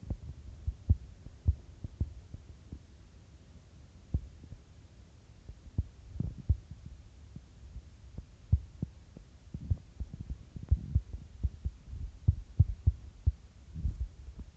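Irregular soft low thumps and taps, sometimes several in quick succession, over a faint low hum: handling and finger-tapping noise from a phone being used, picked up by its own microphone.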